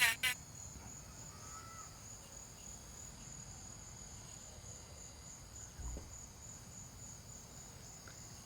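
A faint, steady, high-pitched insect trill, with a soft low thump about six seconds in.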